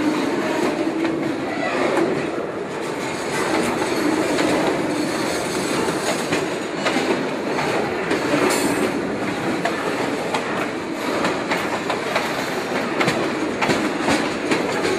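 Freight cars rolling past close by: steel wheels clattering rhythmically over the rail joints under a steady rumble, with a brief high wheel squeal about eight seconds in.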